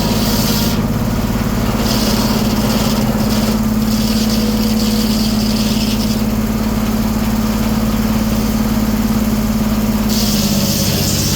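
Engine powering a 1907 American sawmill, running steadily with a strong drone; its pitch drops a little about ten seconds in.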